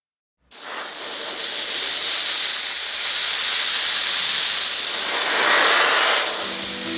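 A loud, steady spraying hiss that starts abruptly about half a second in, with music coming in under it near the end.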